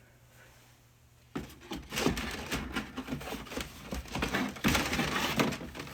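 Cans of pop and their cardboard 24-pack being handled: a busy run of small knocks, clinks and rustling that starts about a second and a half in.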